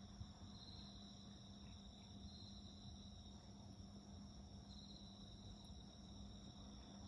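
Faint chorus of crickets singing. One high trill holds steady while another swells for about a second roughly every two seconds, over a steady low hum.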